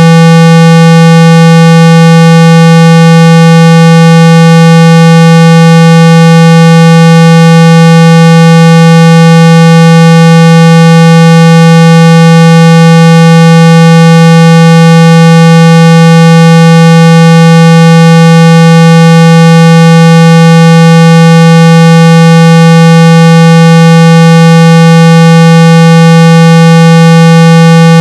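A steady 165 Hz test tone at full volume, a low, buzzy hum with a ladder of overtones that holds unchanged throughout. It is a speaker-cleaning tone, played to shake water and dust out of an iPhone speaker.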